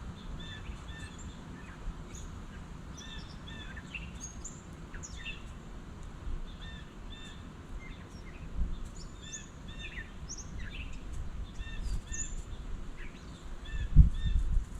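Small songbirds chirping outdoors: many short chirps repeated in quick groups of two or three, with higher quick notes from other birds mixed in, over a low rumble. A dull thump near the end.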